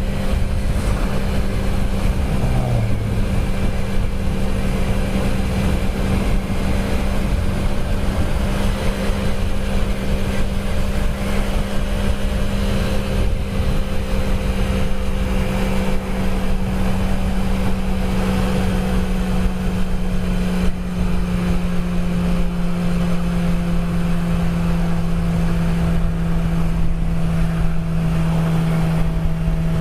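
Honda Grom's small single-cylinder engine on its stock exhaust, running steadily at cruising speed with wind rushing over the microphone. The engine note steps slightly lower about two-thirds of the way through.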